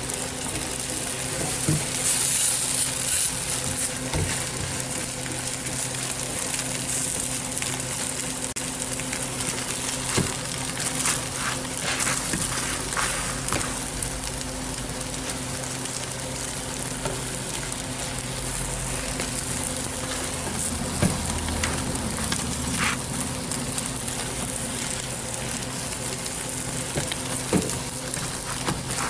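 Egg omelette and bread rolls sizzling on a flat griddle, a steady frying hiss, with occasional short scrapes and taps of a silicone brush and a metal turner against the griddle and bread.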